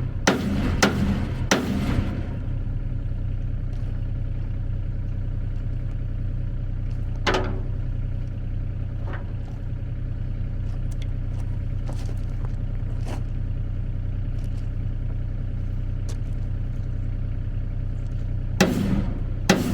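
An engine idling steadily, with sharp metal knocks and clanks: a few near the start, single ones later, and a quick run of them near the end.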